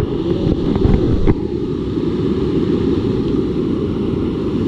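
Steady rushing of fast-flowing water, heavy and low, with a few light knocks in the first second or so.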